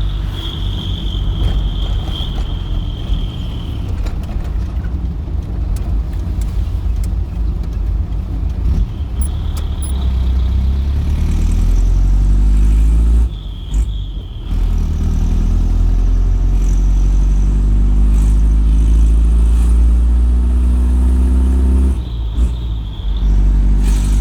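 Mitsubishi Fuso Canter truck's diesel engine heard from inside the cab, exhausting through a single aftermarket muffler pushed onto the straight pipe. It runs steadily, then pulls up through the revs, dips briefly at a gear change about halfway through, pulls up again and dips once more near the end.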